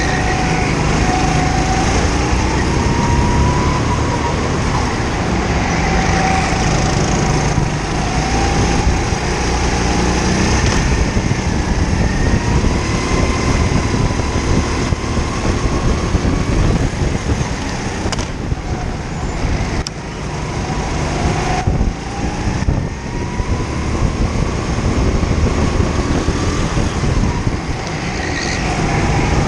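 Kart engine heard onboard at racing speed, its pitch repeatedly rising under acceleration and falling as the throttle is lifted for corners. A few brief drops in level come around twenty seconds in.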